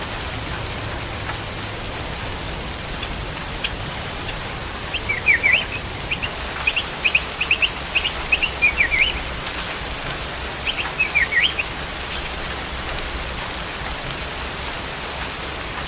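A songbird chirping in a quick run of short, high chirps from about five to twelve seconds in, over a steady rain-like hiss.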